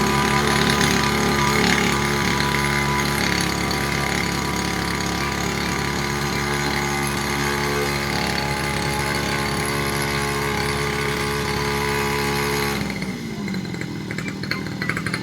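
Grass-cutting machine's small engine running steadily at high speed, then slowing down with a falling pitch near the end.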